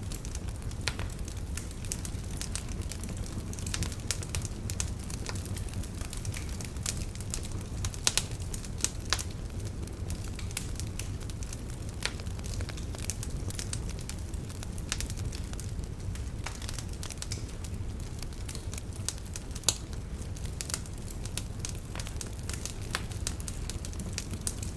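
Wood fire burning in a fireplace: a steady low rumble of flames with frequent irregular crackles and snaps from the logs, a few sharper pops about eight seconds in and again near twenty seconds.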